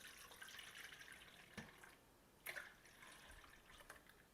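Faint pouring and dripping of a thick egg and buttermilk mixture into a bowl, with a couple of light clicks.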